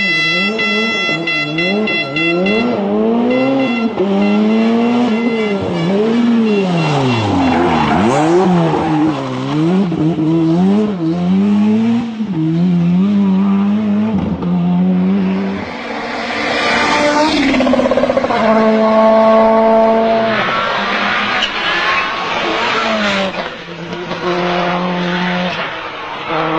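Rally car engines at full throttle, the pitch climbing and dropping again and again as the cars rev hard and change gear, then holding high steady notes that step between pitches in the second half.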